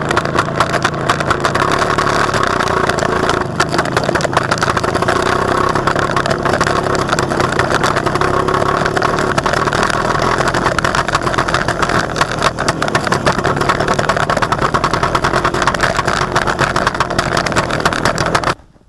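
WSK 125 Lelek motorcycle's single-cylinder two-stroke engine running steadily with a rapid, even firing pulse; it cuts off suddenly near the end.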